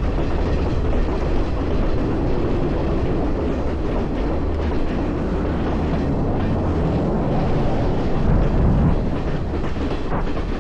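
Train running along the track: a loud, steady rumble of wheels on rails.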